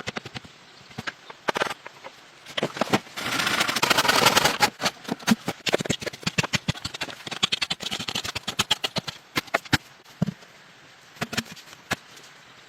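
Rapid, irregular sharp knocks and clicks, with a louder, dense rasping stretch from about three to five seconds in.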